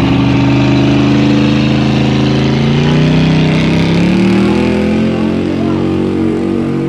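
Loud engine of a competition pulling vehicle running. Its pitch sags over the first few seconds and then climbs again about four seconds in.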